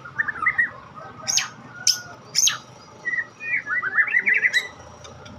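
A white-rumped shama (murai batu, Medan type) singing: a varied run of quick fluttering trills broken by sharp, high, sweeping whistled notes.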